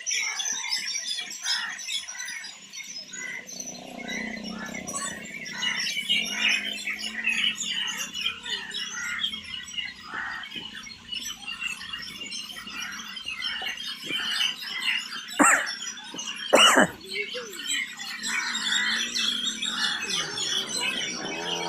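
Many birds chirping and twittering together. About fifteen and seventeen seconds in come two louder calls that sweep steeply down in pitch.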